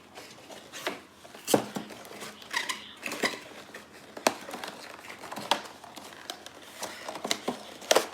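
A die-cast model plane's cardboard box and plastic packaging being handled and opened by hand: irregular clicks and taps with some rustling.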